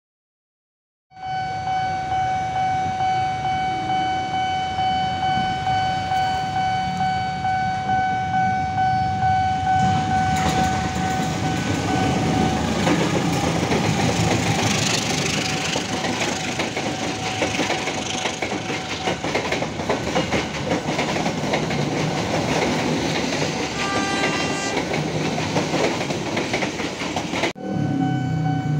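Passenger train running past through a station, starting about a second in. Its wheels clatter rhythmically over the rail joints, about two to three beats a second. A long steady horn note sounds for about the first ten seconds, and a short horn sounds near the end.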